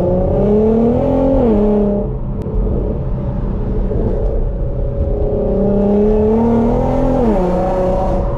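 Car engine accelerating through the gears: the revs climb, drop sharply at an upshift about a second and a half in, then climb again and drop at a second upshift near the end.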